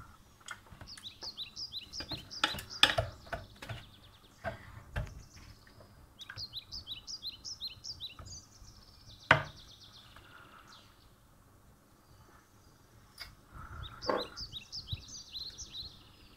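A bird chirping in three quick runs of short, high, falling notes, about five a second. A few sharp knocks are mixed in, the loudest about three and nine seconds in.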